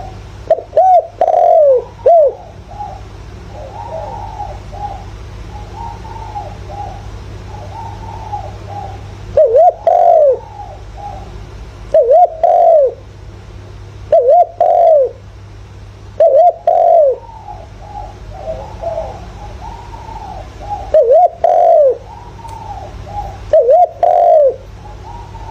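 Spotted dove cooing: loud, curved coo phrases repeat every two to three seconds, with softer cooing in between. A steady low hum runs underneath.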